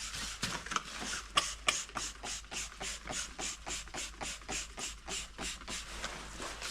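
Rapid, even scrubbing strokes, about four a second: a Volvo TD 100 A piston being cleaned with gasoline.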